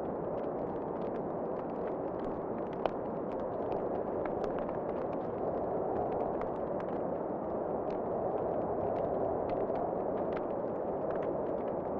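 Wood fire in a fireplace crackling, many small pops over a steady rushing noise, with one sharper pop about three seconds in.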